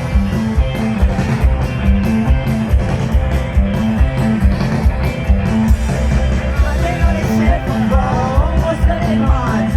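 Live rock band music with a steady drum beat, bass and guitar; a gliding melodic line, voice or lead guitar, comes in about seven seconds in.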